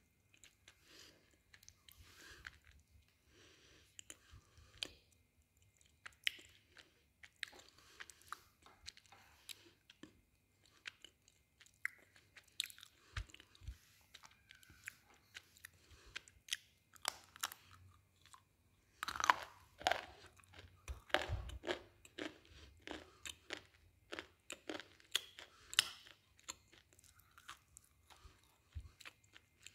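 Close-up chewing of hard, brittle mineral chunks of the slate-pencil and clay kind: irregular crisp crunches between quieter grinding chews, with the loudest run of crunches about two-thirds of the way through.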